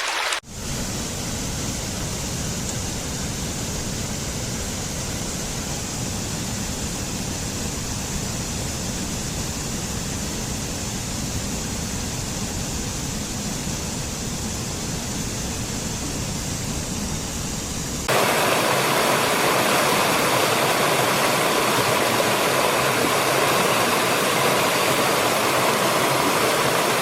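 Steady rushing water with a deep rumble, like a waterfall. About two-thirds of the way in it cuts to a louder, brighter rush of water with less low end.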